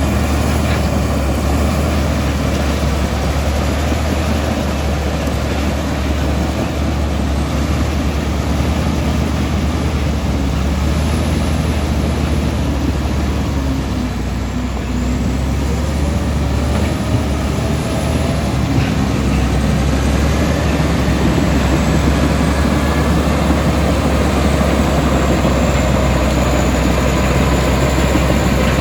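Komatsu D65E bulldozer's diesel engine running steadily with a deep, constant drone. Faint whines glide upward over the machine noise a little past halfway.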